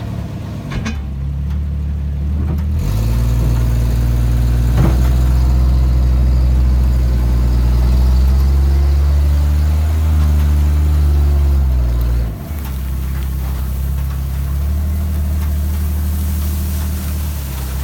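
Vehicle engine working under load while a stuck vehicle is pulled out of mud on a chain. It revs up about three seconds in, holds high for several seconds, then drops back suddenly and runs steadily.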